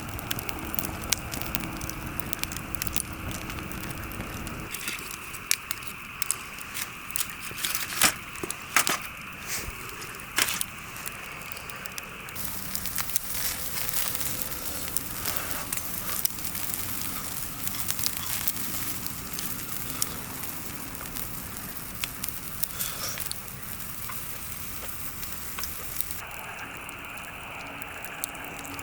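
Wood campfire crackling, with sharp pops scattered irregularly throughout. The sound changes abruptly a few times, as if cut between different takes of the fire.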